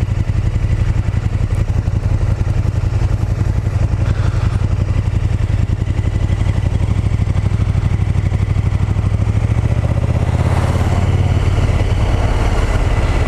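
Motorcycle engine running steadily under way, picked up by a helmet microphone with rushing wind. The engine note picks up slightly about ten seconds in.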